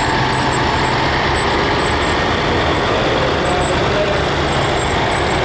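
Vintage farm tractor engine running steadily on parade, a low, even beat of the exhaust.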